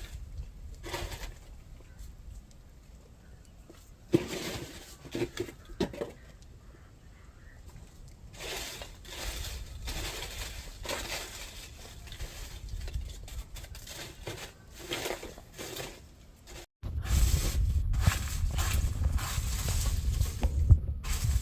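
Dry leaves and twigs rustling and crackling in irregular bursts as a vervet monkey sifts through a foraging box. About three-quarters of the way in a steady low rumble starts after a brief dropout, with the crackling continuing over it.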